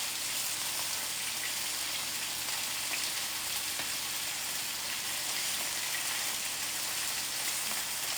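Chicken tenderloins frying in olive oil in an uncovered skillet: a steady sizzle with scattered pops of spitting oil.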